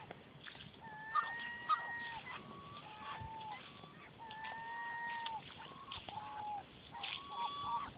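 Gulls calling: a series of long, drawn-out cries, each about a second, with quicker short calls near the end.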